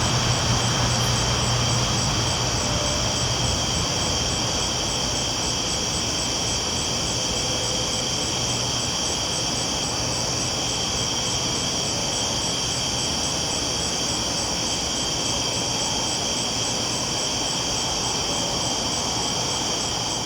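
Train rolling along the tracks: a steady rumble and hiss, easing a little over the first few seconds.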